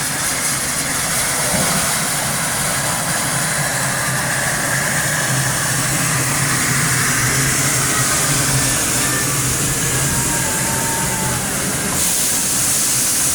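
Steam train: a steady loud hiss of steam over a low, even hum, turning brighter and hissier near the end.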